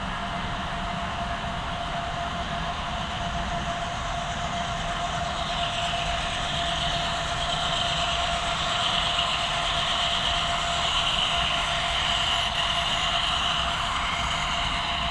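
HO scale model train running along the layout track: a steady rolling and motor noise with a faint steady hum, growing a little louder about six seconds in as the train draws closer.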